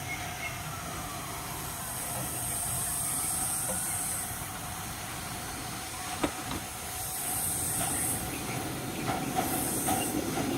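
Live-steam Atlantic (4-4-2) locomotive hissing steam, with several louder bursts of hiss and a single sharp click about six seconds in.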